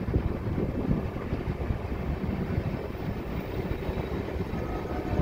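Indian Railways passenger train running on the track, heard from the open door or window of the coach: a steady low rumble and rattle of wheels and coach.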